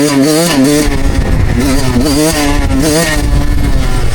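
Suzuki two-stroke dirt bike engine revving, its pitch rising and falling over and over as the throttle is worked to hold a one-handed wheelie.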